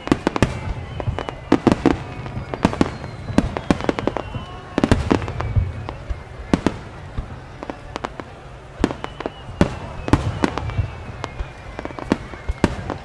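Star mine fireworks barrage: many shell bursts go off in quick succession as sharp bangs over a low rumble, with high whistles sliding down in pitch.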